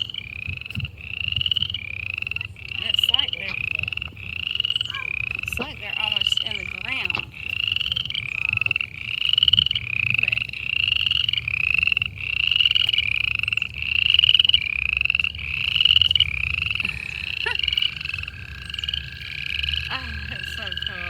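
A chorus of frogs calling: short, high, rising trilled calls repeating about once a second and overlapping. About three-quarters of the way through, a long, steady trill at a lower pitch starts and keeps going.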